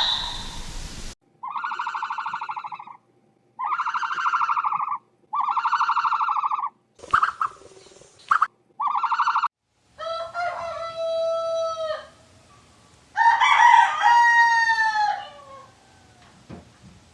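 Fowl calling: three buzzy, rapidly pulsed calls about a second and a half long each, a short harsh burst and a fourth pulsed call, then two longer calls that fall in pitch.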